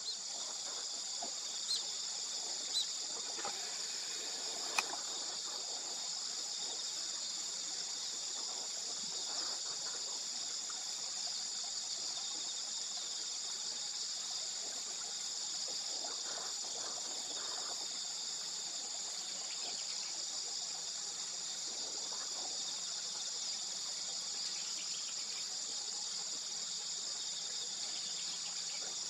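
Steady, shrill chorus of insects, unbroken throughout. A few short clicks sound in the first five seconds.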